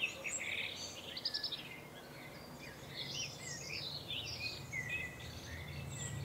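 Songbirds chirping and singing: a busy run of short whistled notes that slide up and down, with a quick trill about a second in.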